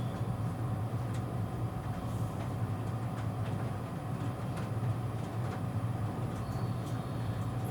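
Interior sound of a JR East E653-series electric train car: a steady low hum with scattered faint clicks and a thin high tone over it.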